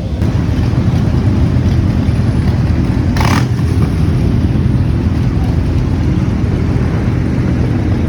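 Motorcycle riding noise: wind rushing over the microphone over a running engine, with a brief hiss about three seconds in.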